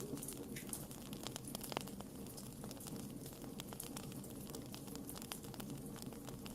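Wood fire crackling: frequent irregular sharp pops and snaps over a steady low background of burning.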